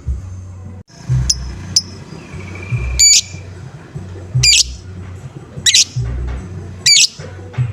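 Lovebird calling, sharp high chirps repeated about every second and a half, in the 'ngoek-ngoek' style used as a bait sound to set other lovebirds calling. Under it runs a music track with a steady bass beat.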